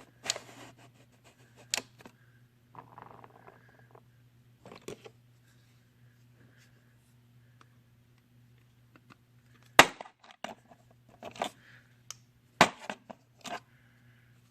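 Scattered sharp clicks and knocks, several close together in the second half, over a steady low hum.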